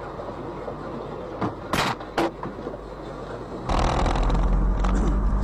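Road vehicle noise, with two or three sharp knocks a little under two seconds in. About two-thirds of the way through, a louder, deeper vehicle sound starts abruptly.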